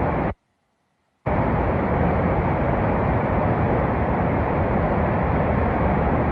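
Floodwater rushing past in a steady, even roar, broken by a sudden second of silence shortly after the start.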